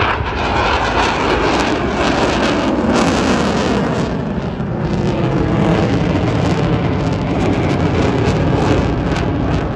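Propeller warbirds with radial piston engines, among them a Grumman TBM Avenger, flying past the crowd line with a loud, steady engine drone.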